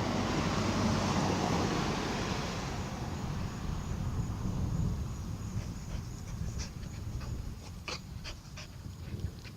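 Dog panting close by, with a few sharp clicks in the second half.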